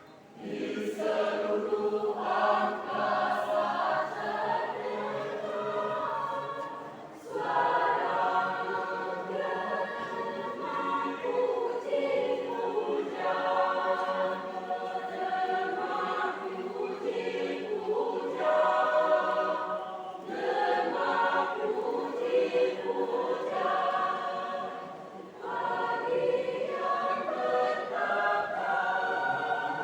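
Church choir singing in a Christmas choir competition performance, with several voices together. The singing runs in sustained phrases broken by short pauses for breath about 7, 20 and 25 seconds in.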